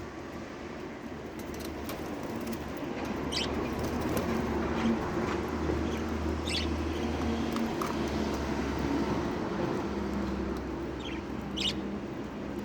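A few short, high chirps from pet lovebirds, spaced several seconds apart, over a steady low hum.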